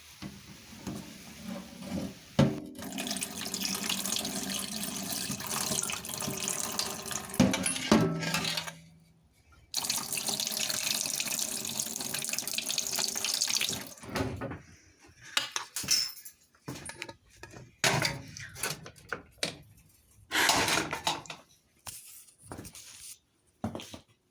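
Running water, like a tap into a sink, in two stretches of several seconds with a short break between, followed by scattered short knocks and splashes.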